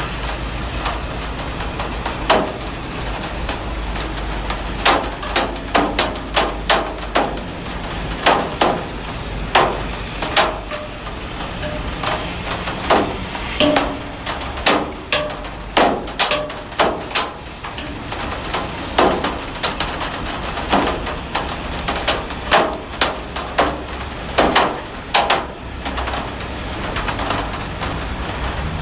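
Heavy rain falling with a steady hiss and low rumble, overlaid by frequent, irregular sharp taps of large drops or drips hitting a hard surface.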